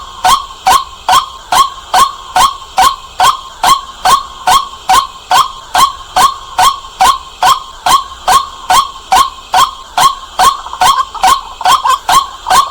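White-breasted waterhen calling, a loud, quick run of short 'kwak' notes repeated very evenly at about two and a half a second.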